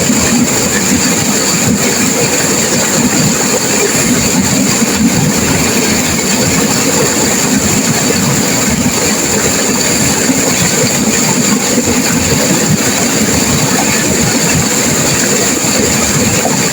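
Turbulent river water rushing and crashing, a loud, steady noise with no let-up.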